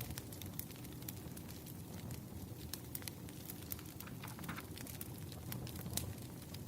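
Wood fire crackling: irregular sharp pops and snaps over a steady low rumble of burning firewood.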